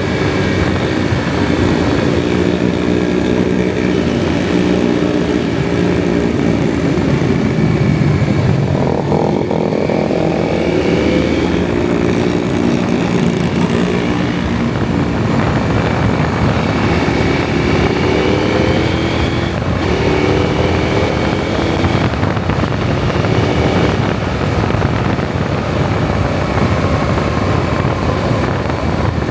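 KTM 790 Adventure's parallel-twin engine running under way, its revs rising and falling several times, with wind rushing over the microphone.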